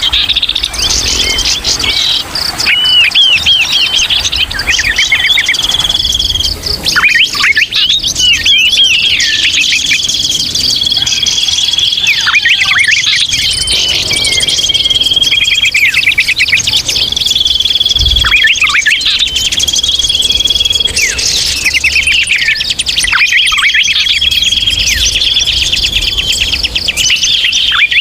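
A noisy chorus of small songbirds chirping, twittering and trilling over one another, with short held whistles repeating every second or two: bird-lure (pikat) audio of the busy, chattering 'ribut' kind.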